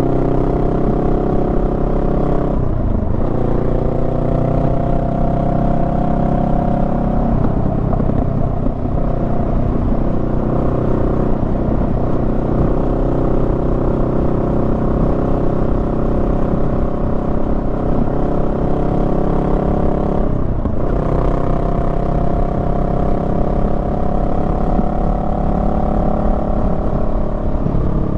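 Honda Rebel 500's parallel-twin engine running under way, its note climbing gently. The note dips sharply and briefly twice, about three seconds in and about twenty seconds in, then picks up again. Low rumble of wind and road noise underneath.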